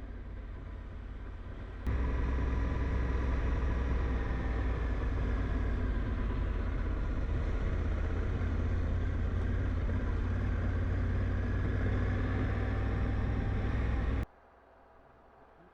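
Motorcycle on the move: steady engine and road rumble, heavy in the low end, with wind noise on the microphone. It starts suddenly about two seconds in and cuts off abruptly near the end, leaving a quiet background.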